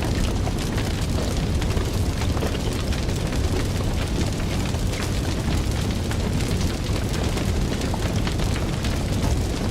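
Fire burning with constant small crackles and pops over a steady low rumble of flames.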